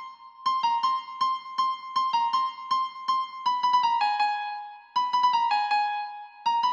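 Karaoke guide melody: a single electric-piano-style keyboard line playing the song's vocal melody note by note, several quick notes a second, in short phrases with brief pauses between them.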